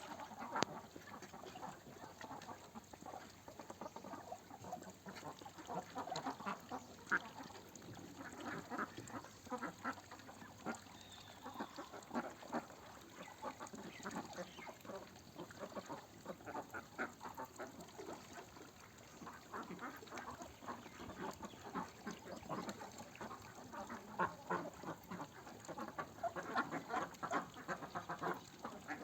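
A flock of domestic ducks quacking, many short calls overlapping without a break.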